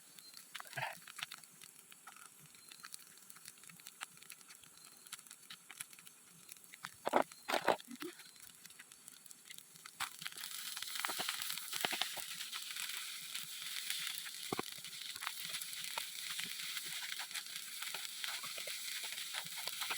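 Pan-frying on a camp stove: a few knocks and clatters, then about halfway through a steady sizzle with small crackles starts as food goes into the hot oil.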